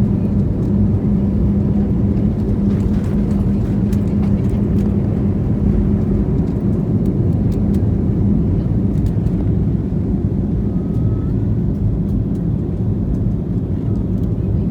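Jet airliner's engines and rushing air heard from inside the passenger cabin during takeoff: a loud, steady rumble with a constant low hum.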